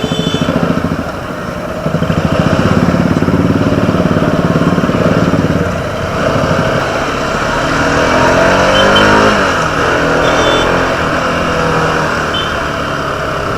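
Motorcycle engine running on the move, with a steady rush of wind and road noise. In the second half the engine note climbs and drops a few times as the throttle changes.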